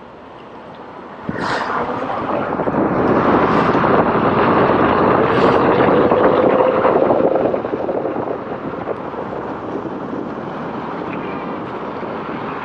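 Wind rushing over the microphone and tyre noise while riding an electric unicycle. It swells about a second in, is loudest through the middle, with a faint rising motor whine, and eases to a steadier rush after about seven seconds.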